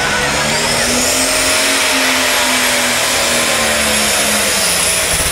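Pulling tractor's engine running hard at full throttle under load during a pull. A high-pitched whine rises in the first second or so, holds, and begins to fall away at the end.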